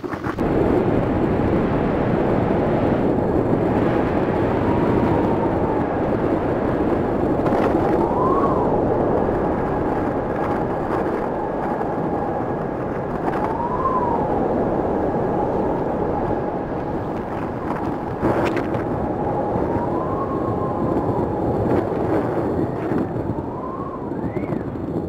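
Strong desert windstorm blowing hard over the microphone, a steady loud rush, with a thin whistling tone that rises and falls every few seconds as the gusts come and go.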